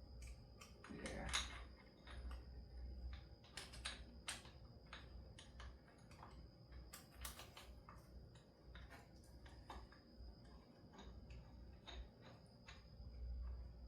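Faint, irregular clicks and light taps of hand tools on metal as a puller is fitted and worked, with a brief scrape about a second in.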